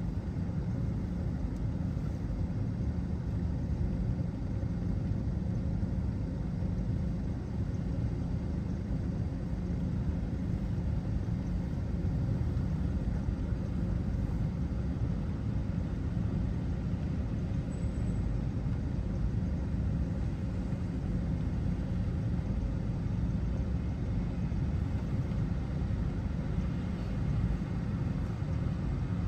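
Steady low rumble of a car driving: road and engine noise with no sudden events.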